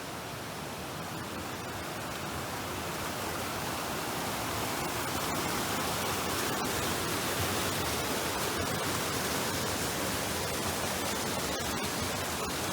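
Grey Wolf River rushing past: a steady wash of fast-moving water that grows a little louder over the first several seconds.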